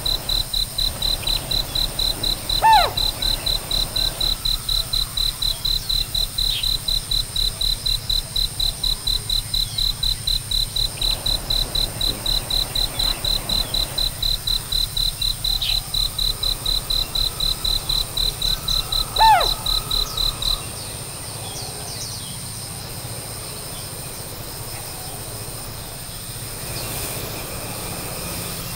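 High-pitched, evenly pulsed chirping like a cricket's, several pulses a second, that stops about twenty seconds in. Twice a loud falling whistled call cuts through it, once near the start and once just before the chirping ends. Fainter scattered chirps follow.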